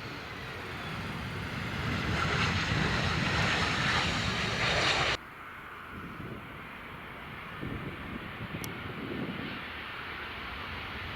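Jet aircraft engines passing close, the rush swelling over the first five seconds and then cutting off suddenly. Afterwards a quieter engine rumble continues, with gusts of wind on the microphone.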